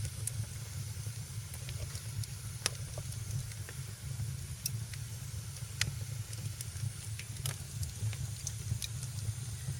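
Wood fire in a fireplace crackling: sharp single pops scattered irregularly, about one a second, over a steady low rumble and a soft hiss.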